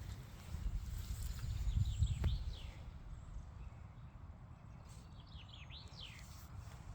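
Birds calling in short, curving chirps, in one bout about two seconds in and another near the end, over a steady low rumble.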